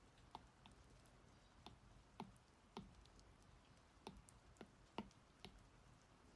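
Stylus tapping on a tablet's glass screen while drawing: about ten light, sharp taps at uneven spacing over a faint steady hiss.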